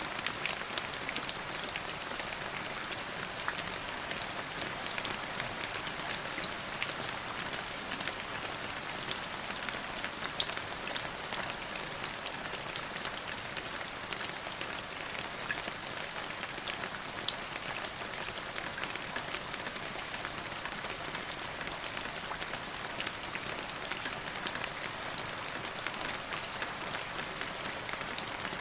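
Steady rain falling on a surface, a continuous hiss with many individual drops ticking sharply through it.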